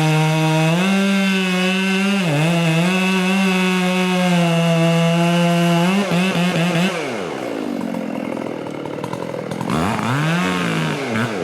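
Chainsaw running at full throttle with a steady high whine for about six seconds, dipping briefly twice, as it cuts into wood. It then drops to low revs and is blipped up and down a few times near the end.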